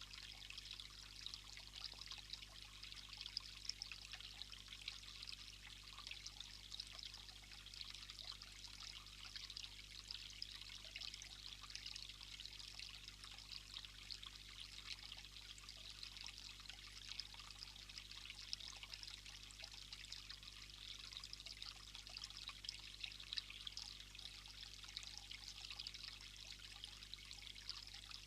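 Faint, steady rushing of running water, even throughout with no distinct events.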